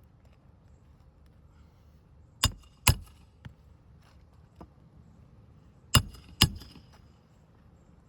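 Roofing nails being driven into a replacement asphalt shingle: two pairs of sharp, ringing metallic strikes, about three seconds apart, with a few faint taps between.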